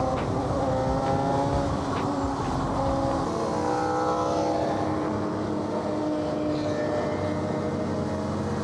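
Sportbike engine accelerating hard: its pitch climbs, drops at a gear change about two seconds in, climbs again, then holds steady at cruising speed.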